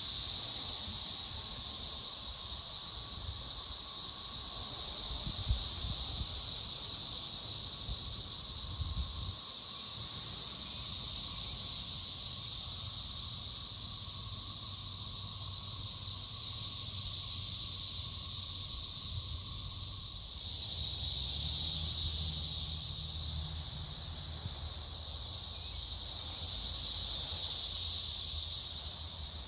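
Chorus of periodical cicadas: a loud, steady high-pitched drone that swells and eases in slow waves.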